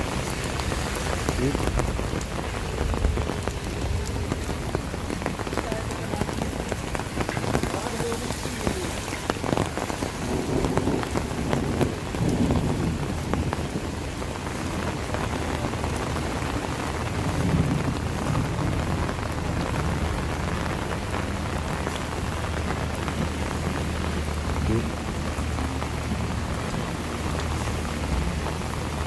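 Steady rain falling and pattering on surfaces, with many small drop impacts, and a low rumble underneath at times.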